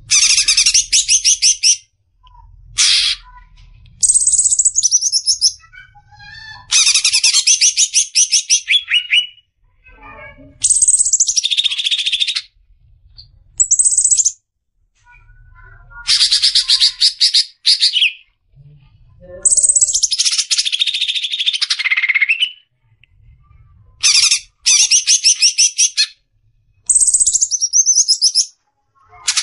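Green leafbird (cucak ijo) singing in the harsh 'besetan' style: phrases one to three seconds long of very fast, rattling rapid-fire notes, with high slurred whistles that fall in pitch, broken by short pauses.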